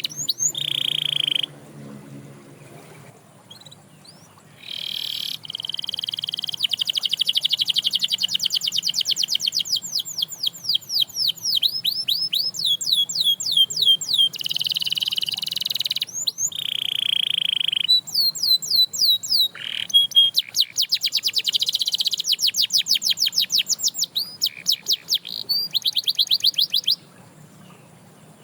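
Domestic canary singing a long song of rapid trills, each a fast string of repeated notes. Some phrases are steady buzzing rolls and others are strings of quick sweeping notes, with short pauses between phrases.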